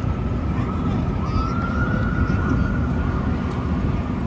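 A distant emergency-vehicle siren holding a faint, slowly wavering high tone over a heavy low rumble of city traffic and wind on the microphone.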